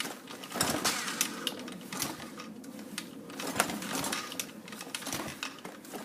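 Dirt bike engine idling cold, a rapid uneven mechanical clatter.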